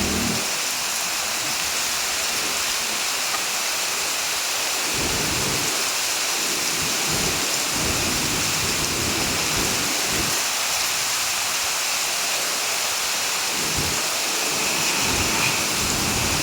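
Heavy rain falling steadily, a dense even hiss, with an irregular low rumble underneath that swells and fades.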